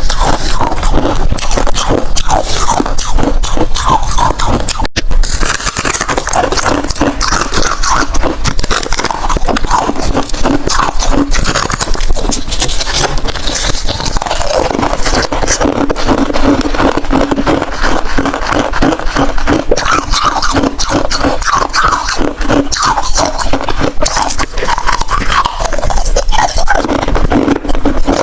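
Close-miked crunching and chewing of hard freezer ice, a dense, continuous crackling with no pauses.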